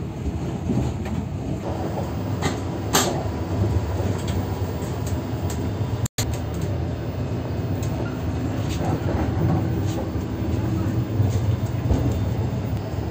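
Running noise inside a moving double-decker passenger train car: a steady rumble and low hum with a few sharp clicks and knocks. The sound cuts out for an instant about six seconds in.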